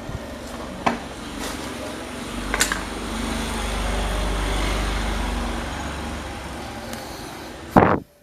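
Restored electric table fan running, a steady motor hum and rush of air that swells and eases off, with a few clicks and a loud knock near the end.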